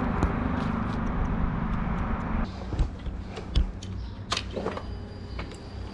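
Motorcycle engine running steadily under a rushing noise that cuts off about two and a half seconds in, followed by a few sharp clicks and knocks.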